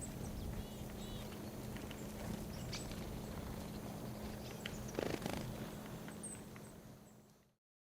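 Great spotted woodpecker knocking with its bill in a few short clusters of sharp taps, the loudest cluster about five seconds in, over a steady low hum with a few faint high chirps. The sound fades out near the end.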